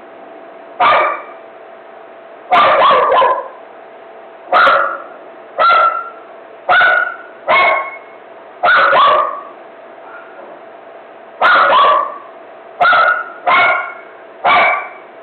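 A dog barking repeatedly in an excited frenzy: about a dozen sharp barks at irregular intervals, some single and some in quick doubles or triples. A faint steady hum sits under them.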